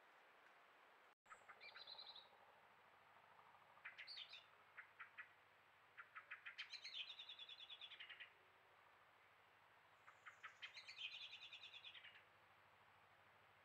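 A faint small bird singing: four phrases of rapid trilled notes, each lasting one to two seconds, with short pauses between them.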